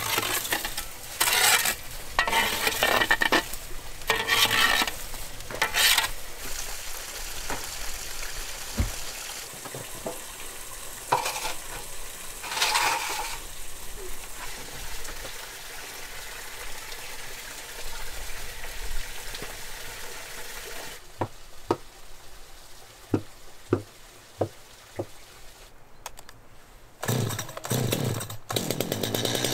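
Food sizzling in a hot pan, with loud stirring and scraping at first, then a steady sizzle. Later come a few sharp knocks, and near the end a loud motor starts running steadily.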